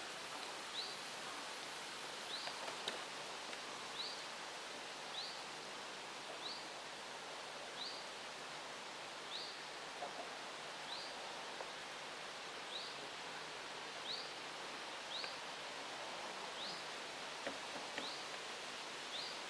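A small bird repeating a short, high, rising call about once a second over a steady background hiss.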